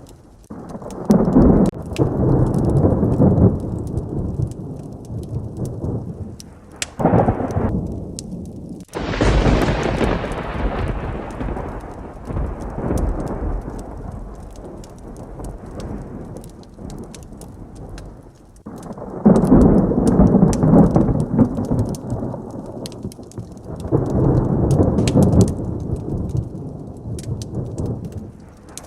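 Heavy rain with thunder rolling again and again. A sharp, close thunderclap about nine seconds in rumbles away over several seconds, and lower rolls come before and after it.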